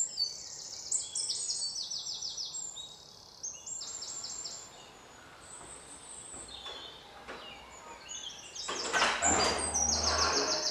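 Small birds chirping in quick repeated series. Near the end, louder clatter and rustling as a front door is opened.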